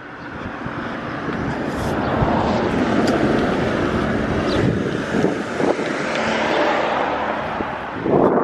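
Road traffic noise: a motor vehicle running past, swelling over the first few seconds, with wind on the microphone.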